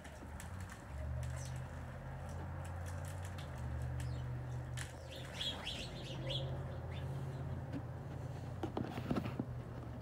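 A few short, high bird chirps between about five and six and a half seconds in, over a steady low mechanical hum. A brief clatter of clicks comes near the end.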